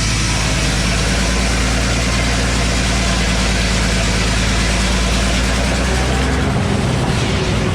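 A Frick sawmill's 48-inch circular saw blade cutting through a large poplar log, over the mill's engine running steadily. The low drone shifts about six and a half seconds in.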